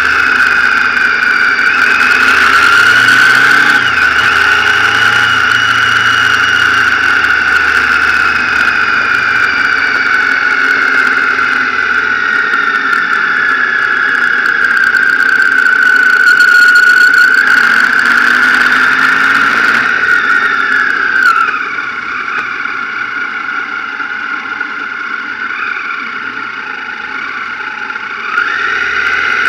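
Motorcycle riding on the road: engine and drivetrain whine rising and falling in pitch with speed. The throttle eases off about two-thirds of the way through, then the engine picks up again near the end.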